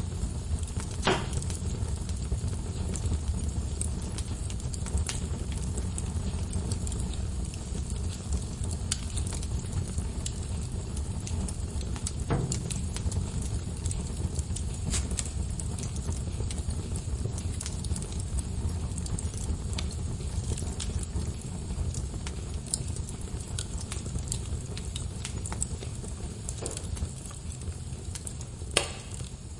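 Log fire in a fireplace crackling, with a steady low rumble of the flames and scattered sharp pops; stronger pops come about a second in, near the middle and near the end.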